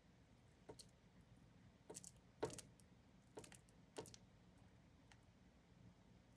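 Faint handling sounds of fingers pressing ground chicken stuffing into a halved bitter melon: a handful of soft, irregular clicks and taps against near silence, the loudest about two and a half seconds in.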